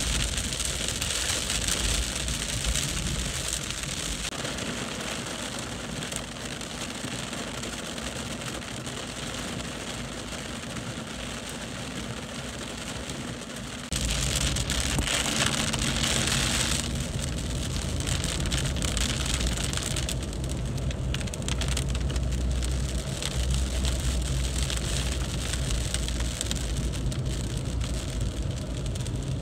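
Heavy rain pouring down, a steady dense hiss. About halfway through the sound cuts abruptly to a louder take with a deep rumble beneath the rain.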